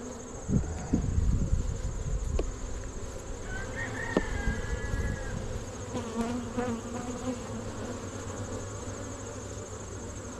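Honey bees buzzing steadily around an open hive, with a few low thumps in the first couple of seconds.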